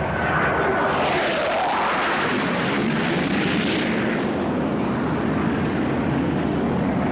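A-4 Skyhawk jet making a low, fast pass over a patrol boat: a swelling rush of jet noise with a falling pitch as it goes by. Underneath it runs the steady drone of the boat's engines.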